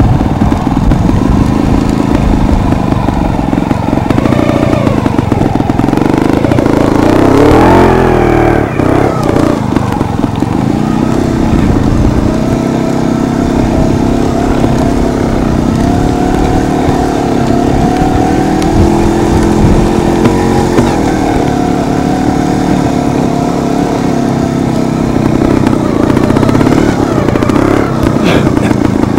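Beta trials motorcycle engine running close to the microphone, revving up and down as the bike picks its way over rough rocky ground, with a sharp rise in revs about eight seconds in.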